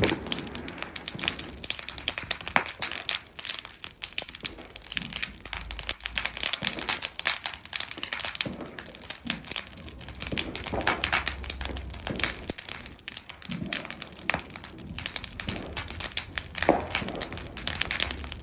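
Bonfire burning, with dense, irregular crackling and popping over a steady hiss.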